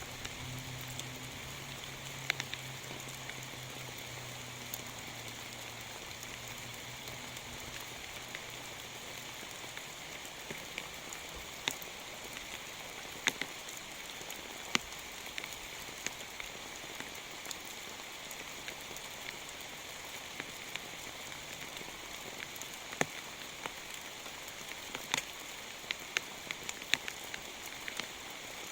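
Heavy rain falling steadily, with large drops landing as sharp, irregular ticks on a nearby surface. A faint low hum sounds under the rain and fades out about nine seconds in.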